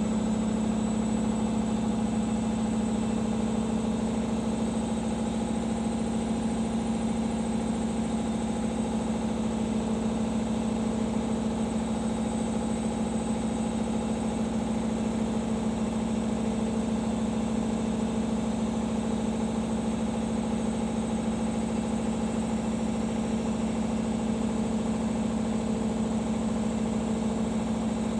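Arçelik 5083 washing machine in its final spin, the drum turning at a constant speed: a steady motor hum that holds one pitch throughout.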